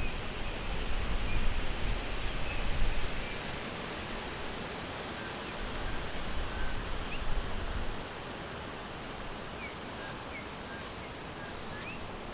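Outdoor forest ambience: a steady rushing hiss with a low rumble that swells during the first half and eases off about eight seconds in. Faint, short high bird chirps come and go throughout.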